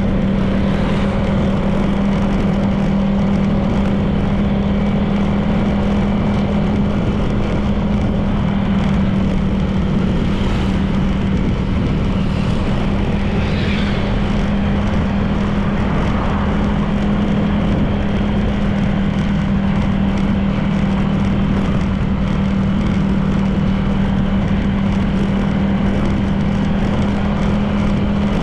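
Honda PCX 160 scooter's single-cylinder engine running at a steady cruising speed, one even engine tone with continuous road noise.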